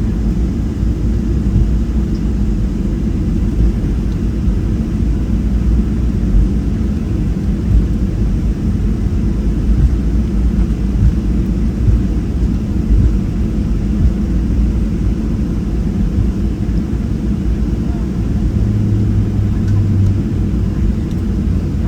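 Steady low rumble inside the cabin of a Boeing 737-700 on the taxi out, from its CFM56-7B engines at idle and the airframe rolling on the taxiway. A low hum joins for a second or so near the end.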